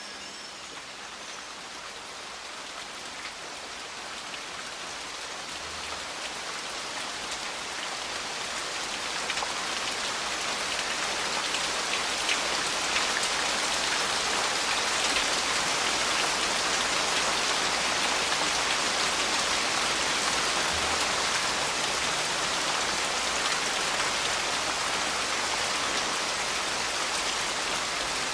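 Steady rain falling, a dense patter of drops that grows louder over the first ten seconds or so and then holds steady.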